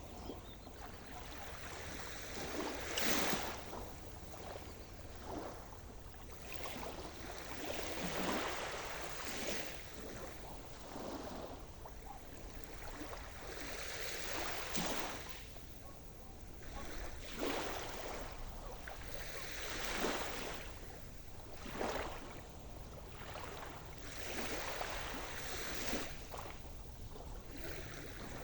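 Sea surf: waves breaking and washing in, each swell peaking every few seconds over a constant low rumble of wind on the microphone.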